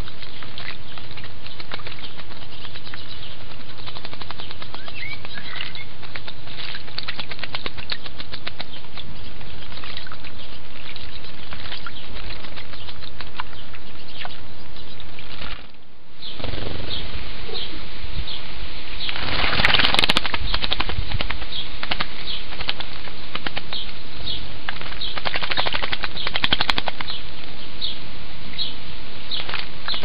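Common blackbird bathing in a shallow stone birdbath, splashing and fluttering its wings in the water over a steady background hiss. About halfway the sound briefly drops away, and house sparrows take over, splashing and flapping at the bath in short flurries.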